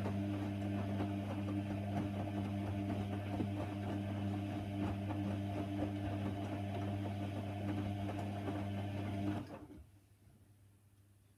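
Hoover Nextra HNWL 7146 washer dryer running with a steady hum and a rapid rattle. It cuts off suddenly about nine and a half seconds in.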